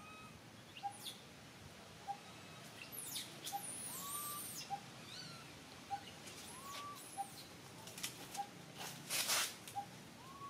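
Birds calling: one repeats a short, low note about once a second throughout, while others add rising call notes and high, sweeping calls. About nine seconds in comes a short burst of noise, the loudest sound here.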